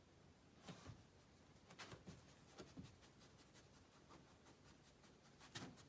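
Near silence, broken by a handful of faint, short scratches and rustles, the clearest one near the end.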